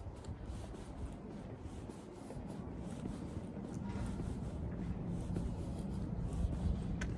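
Steady low rumble of outdoor noise with faint rubbing and rustling, and one sharp click near the end.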